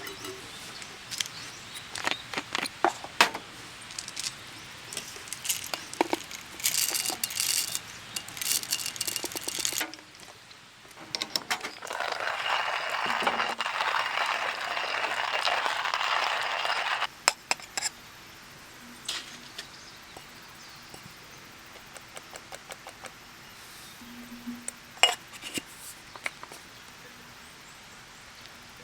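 Glassware, dishes and utensils clinking and tapping in short bursts, with a steady hiss for about five seconds in the middle.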